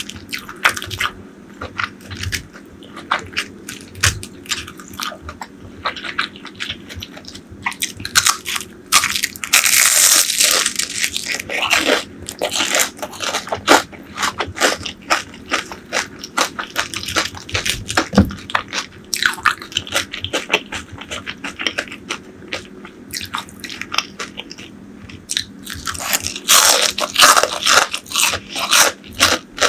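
Close-miked eating: crunchy bites and chewing of fried food, with two louder spells of dense crunching, about a third of the way in and near the end.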